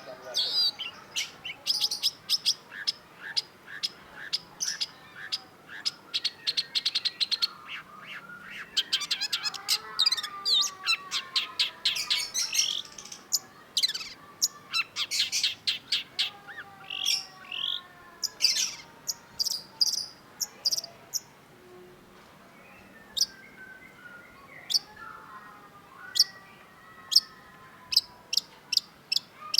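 Long-tailed shrike (cendet) singing: fast runs of short, sharp chattering notes, mixed with lower falling whistled phrases, with a short lull about two-thirds of the way through.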